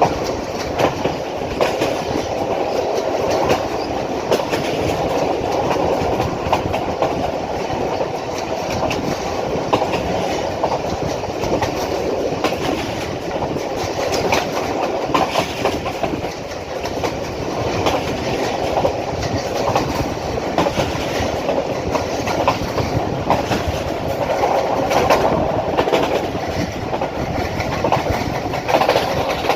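Passenger express train running at top speed: a steady rumble with the wheels clattering over rail joints in quick, irregular clicks.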